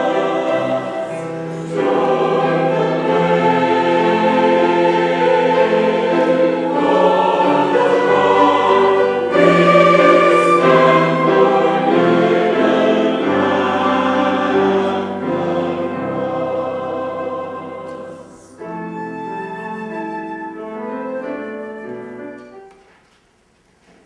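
Church choir singing a slow piece in harmony, holding long chords; the singing grows softer about three-quarters of the way through and ends shortly before the close.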